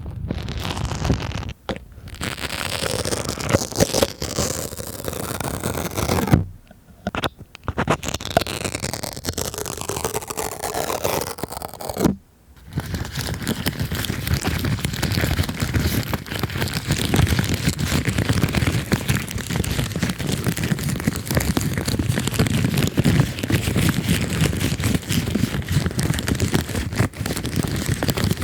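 Close-miked ASMR rubbing: stickers scraped and crinkled directly on a microphone, then, after a brief gap, a rubber balloon squeezed and rubbed against the microphone in a dense, steady crackling rub.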